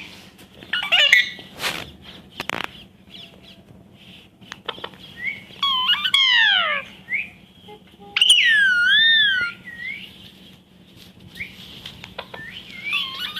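Pet parrot whistling and calling: short chirps and clicks, falling calls about six seconds in, then a long wavering whistle a couple of seconds later, the loudest sound here.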